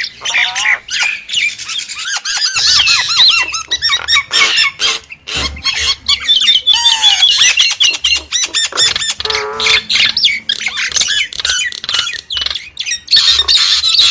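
Nias starling singing a fast, varied run of whistles, warbles and squawks, full of quick rising and falling pitch glides.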